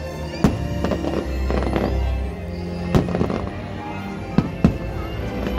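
Aerial fireworks bursting over music: several sharp bangs, the loudest about three seconds in and a close pair near the end, with lighter crackling in between.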